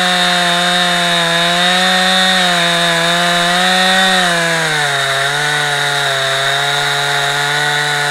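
Chainsaw at full throttle, ripping lengthwise through a log in a chainsaw mill. Its engine note drops a little about halfway through as the chain takes more load, then holds steady.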